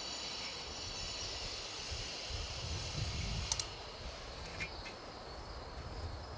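Insects chirring steadily, fading out about two-thirds of the way through, over a low outdoor rumble, with a couple of sharp crackles from a low-burning campfire of damp wood.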